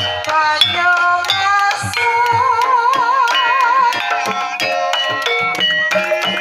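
Banyumasan gamelan music: struck metallophone notes over kendang drum strokes, with a sinden's held wavering note from about two seconds in.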